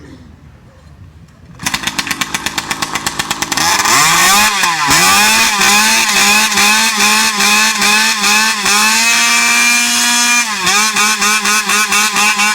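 Engine of a big custom chainsaw starting up about two seconds in with rapid firing, then revved up and down over and over, held high for a moment and dropped back, as it is warmed up. Very loud.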